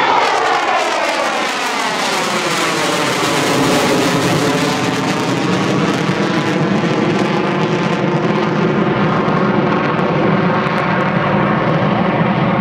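F-4 Phantom II's twin J79 turbojets passing and pulling away. The jet sound drops in pitch over the first couple of seconds, then settles into a steady, continuing rumble.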